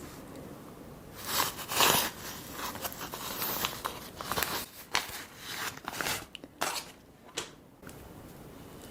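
Close-miked tearing and crinkling sounds of food being handled, in irregular bursts that start about a second in, are loudest near two seconds and die away about seven and a half seconds in.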